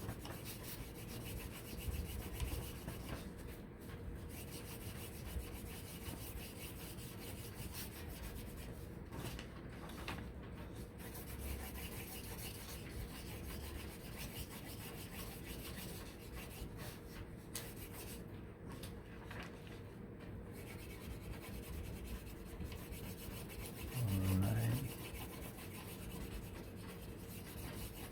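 Steady scratchy rubbing of brown colouring worked back and forth over a sheet of paper, as a whole A4 page is coloured in.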